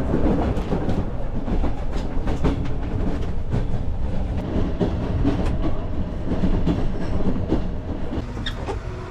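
Passenger train running, heard from inside the carriage: a steady low rumble with frequent wheel clatter and rattling knocks, getting quieter over the last couple of seconds as the train slows to arrive.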